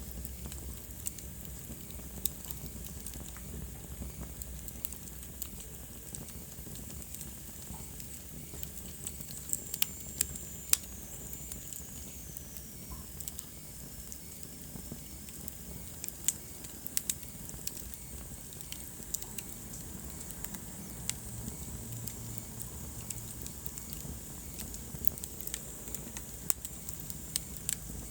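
Wood fire crackling in a fireplace: a steady low hiss with irregular sharp pops and snaps, a cluster of louder pops about ten seconds in. Around the same time a faint high whistle slides down in pitch over a few seconds.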